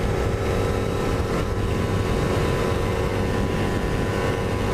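Kawasaki Ninja 250R's parallel-twin engine running at steady high revs at speed, under heavy wind noise. The pitch holds level without rising or falling.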